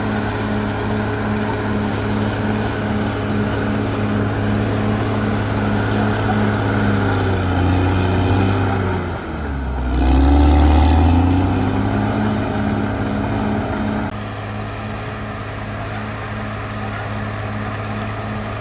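Caterpillar D6R XL bulldozer's diesel engine running steadily with a regular pulsing beat. About nine seconds in the engine note sags in pitch, then climbs back up and runs loudest for a couple of seconds; it drops a little in level about fourteen seconds in.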